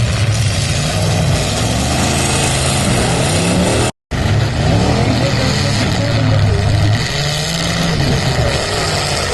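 Several full-size demolition derby cars' engines running and revving together, their pitches rising and falling as the cars drive. The sound cuts out completely for a split second about four seconds in.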